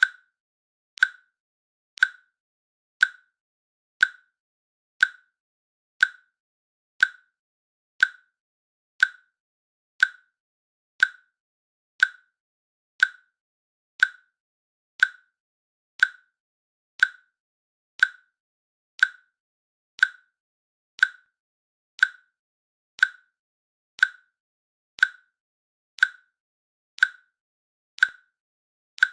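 Timer click sound effect ticking once a second: a short, sharp, fairly high-pitched click with silence between, each click marking one second of the countdown.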